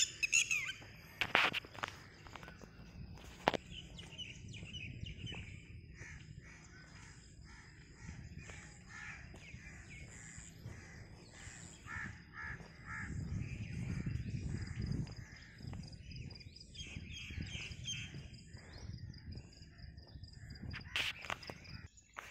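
Birds calling over and over outdoors, with a steady high-pitched whine under them and a low rumble that swells in the middle.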